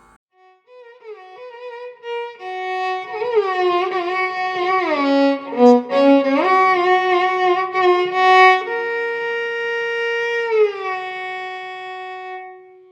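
Solo violin playing a slow melody with many slides between notes. It ends on a long held note that slides down and fades out.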